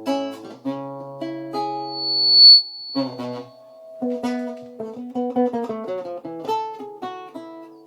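Acoustic guitar playing an instrumental passage: a few strummed chords, then a quick picked single-note melody from about three seconds in. A thin high whistling tone rises briefly under the chords just before the melody starts.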